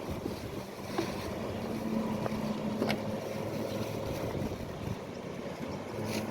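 Motorboat engine running at a steady pitch, a low even hum, with a few faint clicks or knocks over it.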